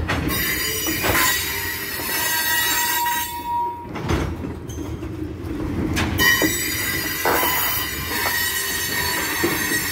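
Freight train's covered hopper cars rolling past, their steel wheels squealing in steady high tones over a low rumble, with several sudden clanks and knocks from the cars.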